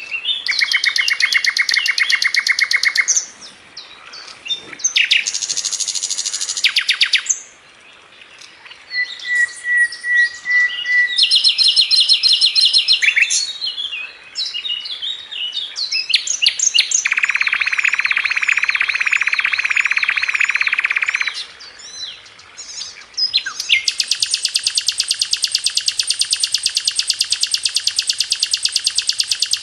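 Sikatan londo flycatcher singing a fast, varied song: a string of phrases a second or few long, mostly rapid rattling trills, with a few short whistled notes between them and a long unbroken trill in the last few seconds.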